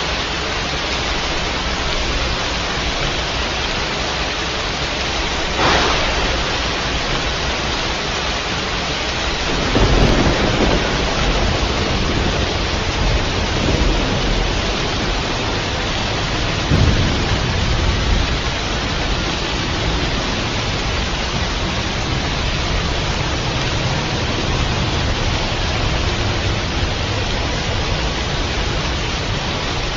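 Steady heavy rain with thunder: a sharp crack about six seconds in, then a low rumble that builds about ten seconds in and rolls on in further swells until around eighteen seconds.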